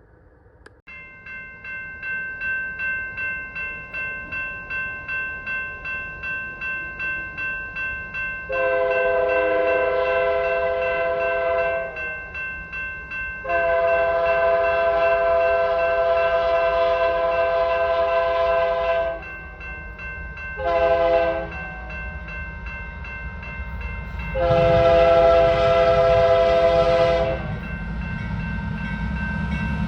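A grade-crossing bell ringing steadily, about two strokes a second. The approaching Union Pacific grain train's locomotive horn then sounds the crossing signal: two long blasts, a short one, then another long one. The rumble of the locomotives grows near the end.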